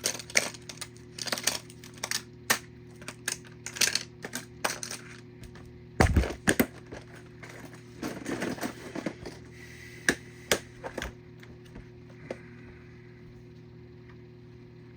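Small die-cast metal toy cars clicking and clinking against each other as they are handled and set down: a rapid series of sharp metal clicks with a heavier knock about six seconds in, thinning out in the last few seconds. A steady low hum runs underneath.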